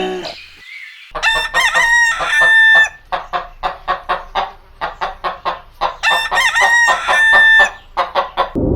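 Rooster crowing twice, about five seconds apart, with rapid clucking, about three calls a second, between and after the crows.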